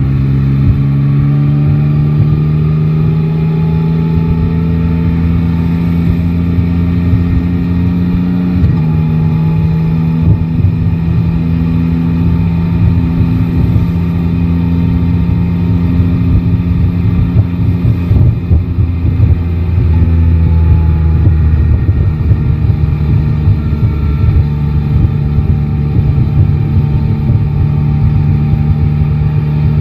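Yamaha Tracer 9 GT's 890 cc inline three-cylinder engine running on the move, climbing in pitch at first, dropping suddenly about nine seconds in, then holding steady and easing down again after about twenty seconds. A low wind rumble on the microphone runs underneath.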